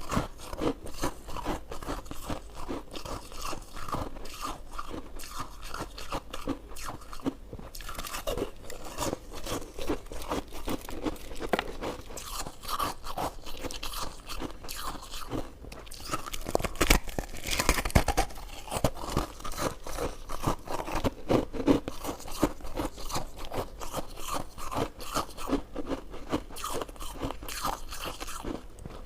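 Close-miked eating sounds: a person biting and chewing soft, chewy desserts, with dense, irregular wet clicks and crunches throughout.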